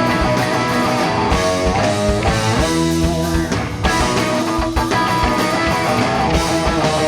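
Live rock band playing an instrumental passage: loud electric guitars over bass and drums, with no vocals.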